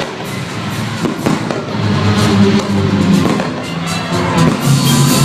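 Fireworks going off in many sharp pops and bangs, over loud music.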